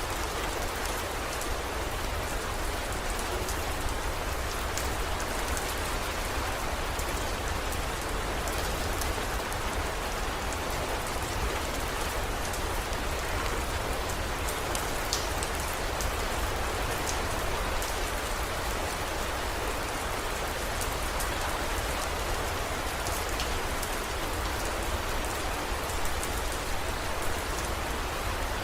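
Heavy rain falling steadily, with scattered individual drops ticking sharply over the downpour and a low, even rumble underneath.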